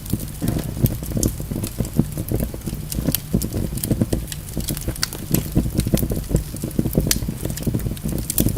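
Wood fire burning in a fireplace: a steady low rumble with frequent sharp crackles and pops, several a second.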